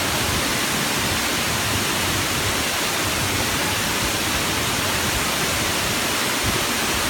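Waterfall: water pouring and splashing in a constant, even rush.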